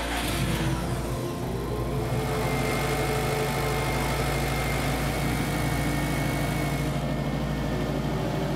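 Subaru Forester's turbocharged flat-four engine starting and then idling steadily, its first run on a base tune after the fuel-system and flex-fuel rework.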